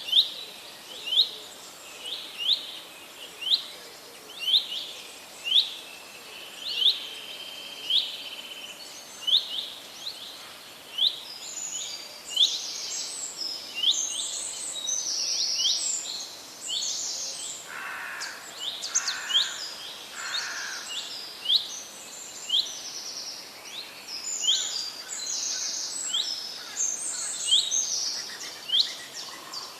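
Wild birds singing. One bird repeats a short, sharp call about once a second, and from about a third of the way in other birds join with quicker, higher calls that overlap it.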